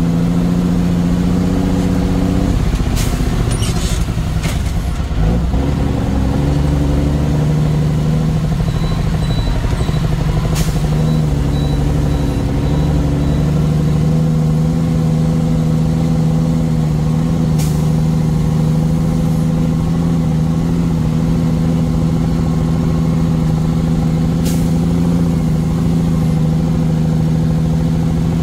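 Heavy truck's diesel engine running steadily under way, with a change in engine pitch a few seconds in, as with a gear change. A few short, sharp hisses or clicks, typical of the truck's air system, sound at intervals.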